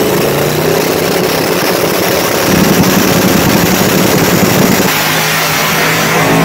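Race car engine running hard at high revs, a loud steady noisy roar with a low hum whose pitch steps up about two and a half seconds in and drops back about five seconds in.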